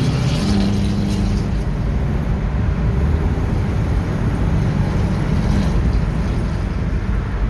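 A car driving in traffic: a steady low engine and road rumble, with a held engine tone in the first second or so that then fades.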